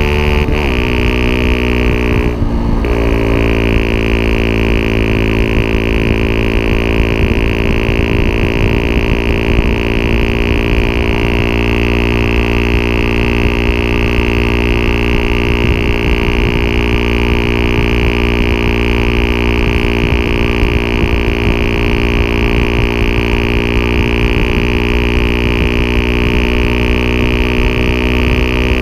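Yamaha WR125R's single-cylinder four-stroke engine running through a Takkoni aftermarket exhaust. The pitch drops in the first half second and shifts briefly about two and a half seconds in, then the engine runs steadily at a constant speed.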